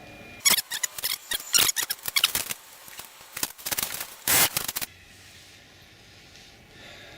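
Quick clicks and rattles of a compression gauge and tools being handled on an outboard motor, then two short bursts of noise about three and a half and four and a half seconds in.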